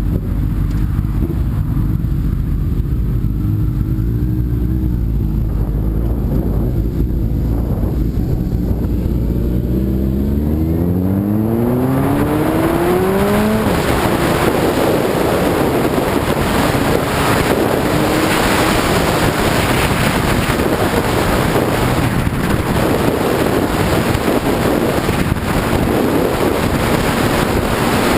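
Sport bike engine running low and steady, then revving up in a rising pull about ten seconds in as the bike accelerates. From then on, wind rushing over the microphone at speed mostly covers the engine.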